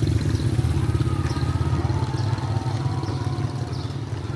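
A motor vehicle engine running steadily, easing off slightly in the last second or so.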